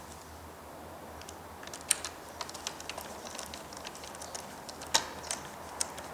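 Irregular small clicks and taps of hard objects being handled, with two sharper clicks about two and five seconds in.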